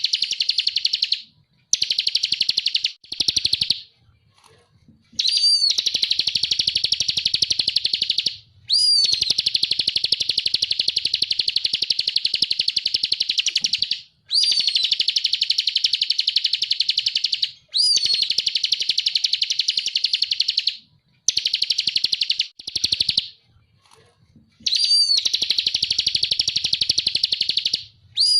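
Bar-winged prinia (ciblek) singing its rapid 'ngebren' trill: long, fast rattling runs of high notes. Each run opens with a short upslurred note, lasts up to about five seconds, and repeats after short pauses.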